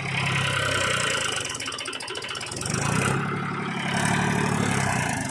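Mahindra 265 DI tractor's diesel engine running under load, its note dropping about a second and a half in and picking back up near the three-second mark.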